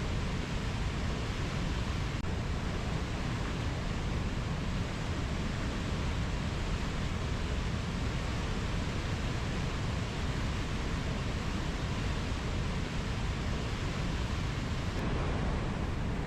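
Steady, even rushing noise of a rainforest ambience recording, heaviest in the low end, with no distinct bird or insect calls standing out.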